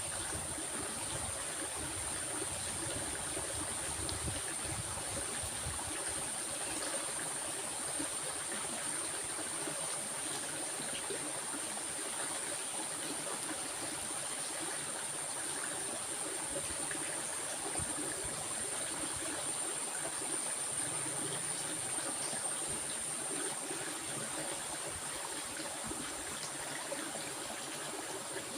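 Water flowing in a stream: a steady, unchanging rush, with a thin high hiss held over it.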